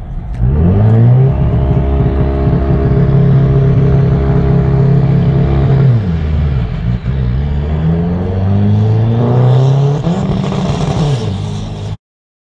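Drag-racing Honda Civic's engine held at high steady revs on the start line, then dropping as the car launches and climbing hard through the gear, with a shift near the end before the sound cuts off suddenly.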